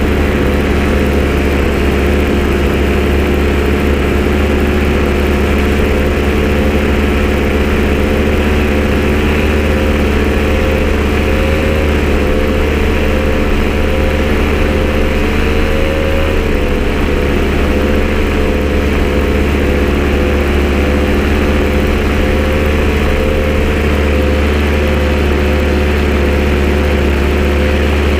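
An engine running steadily at idle, loud, with a strong low hum and an unchanging pitch; the note wavers slightly about halfway through.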